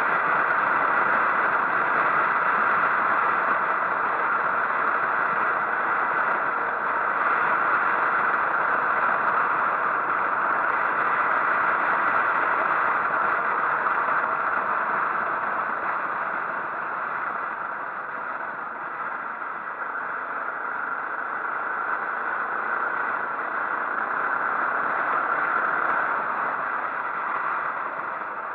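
Motorcycle on the move: steady engine and wind noise of riding, easing off slightly about two-thirds of the way through.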